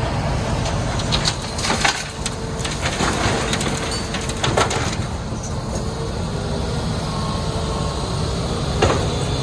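Hitachi Zaxis 210 excavator's diesel engine running under load while loading sand and rock, with rock clattering and cracking as the material is worked. The cracks come thickly from about a second to five seconds in, with one more sharp crack near the end.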